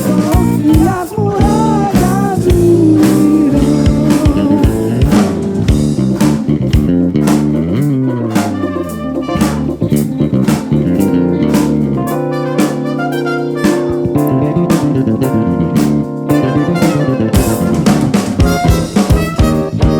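Live band playing an instrumental passage: drum kit keeping a steady beat under electric guitar and bass guitar.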